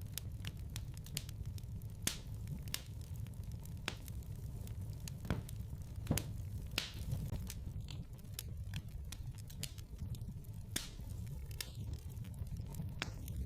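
Wood fire crackling in a fireplace: irregular sharp pops and snaps over a steady low rumble, with a few louder pops around the middle.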